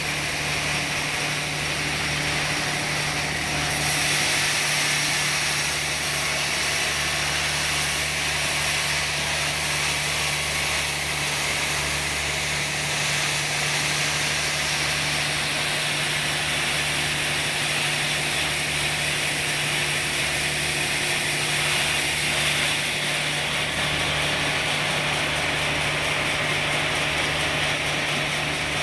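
Sawmill running as it saws a teak log: a steady mechanical noise with a constant low hum underneath.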